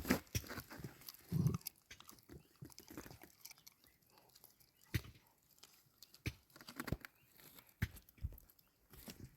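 Puppies eating, chewing and crunching food: a scatter of short clicks and small knocks.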